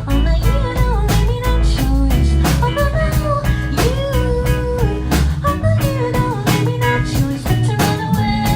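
Live band music from the audience floor of a club: a steady drum-kit beat under bass, guitar and a sliding melody line.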